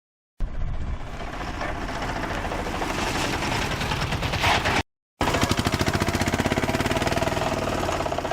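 A fast mechanical rattle that breaks off for a moment just before five seconds in, then resumes as a steadier, very regular rapid pulsing.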